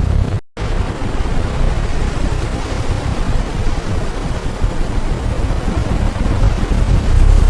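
Steady, loud rumbling roar of heavy steel-plant machinery, with a brief cut to silence about half a second in.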